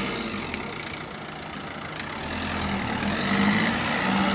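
A car engine running close by over a steady hiss, getting louder about three seconds in.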